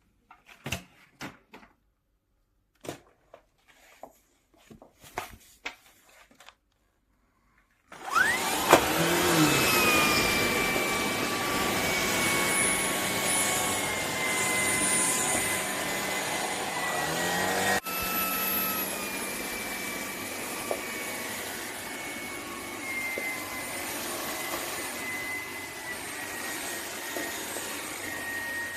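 A few light clicks and knocks of handling, then a vacuum motor of the Shark PowerDetect Clean & Empty starts abruptly, about eight seconds in, and runs loudly. Its whine slowly drops in pitch, with a brief break about ten seconds later.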